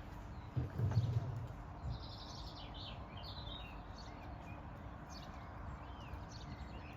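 Small birds chirping and singing over a steady low outdoor background, with a brief low, muffled rumble about half a second in.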